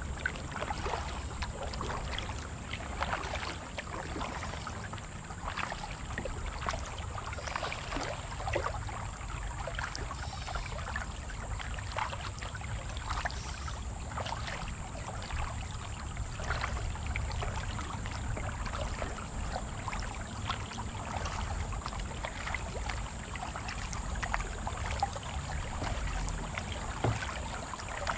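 Kayak paddling: irregular splashes and trickling water as the paddle blades dip in and drip, over a low rumble and a steady high-pitched whine.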